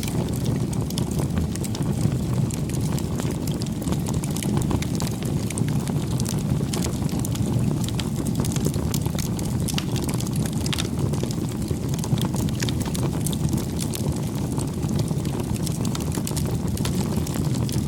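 Campfire burning: a steady low rush of the flames with frequent, irregular sharp crackles and pops from the burning wood.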